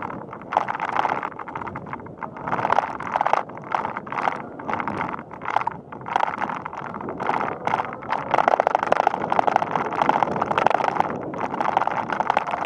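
Bicycle riding along a paved path, the bike rattling and ticking in irregular bursts, with a dense run of rapid clicks partway through.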